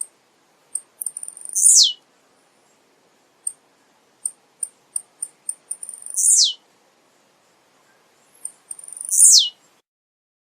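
Male blue-black grassquit (tiziu) singing: each phrase is a quick run of short, very high ticks ending in a loud, sharp downward-sweeping note, repeated three times.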